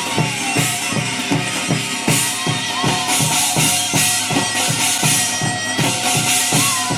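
Korean shamanic ritual (gut) music: a drum beaten in a steady fast rhythm of about three strokes a second, with cymbals shimmering and a wind instrument's melody sliding in pitch over it.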